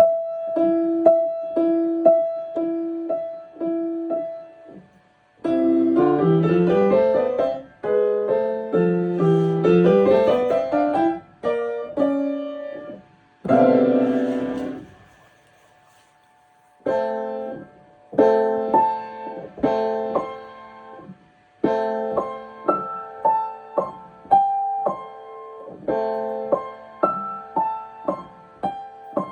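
Solo piano being practised: a repeated two-note figure, then runs up and down the keyboard and a loud chord, a pause of about two seconds, then a steady series of chords.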